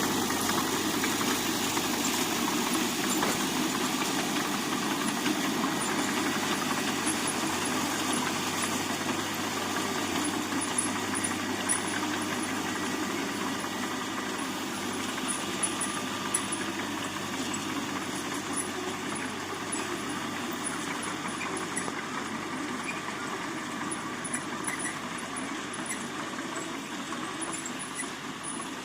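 Heavy construction machine's diesel engine running steadily, slowly getting quieter.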